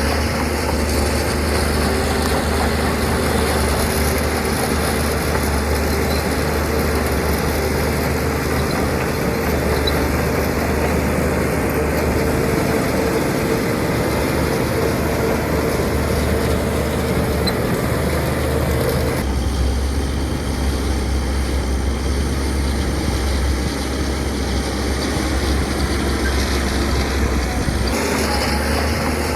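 Heavy diesel engine of earthmoving machinery running steadily, with a strong low hum. The sound changes abruptly about two-thirds of the way through.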